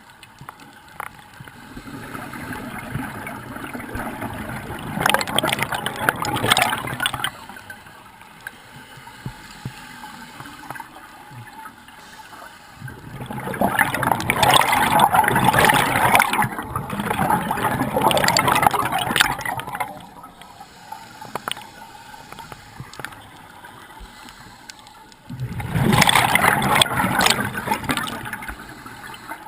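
Water gurgling and bubbling in three long surges, the middle one the longest and loudest, with quieter sloshing between them.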